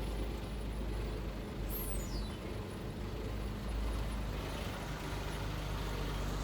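Diesel engine of heavy earthmoving equipment running steadily at low revs, a low even rumble. A faint high whistle falls in pitch about two seconds in.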